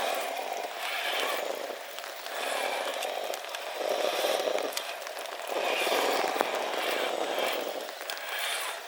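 Radio-controlled scale crawler's electric motor and drivetrain revving in repeated short bursts of throttle, swelling and dropping about every one to two seconds.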